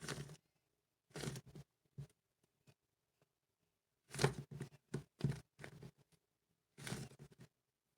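Cloud slime being squished and pulled apart by hand, giving short crackly, tearing bursts: one at the start, one about a second in, a quick run of them around four to five and a half seconds in, and another near the end.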